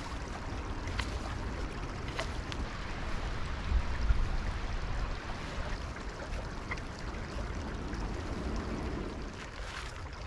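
Woodland stream running steadily, with a low rumble that swells briefly about four seconds in and a few faint clicks.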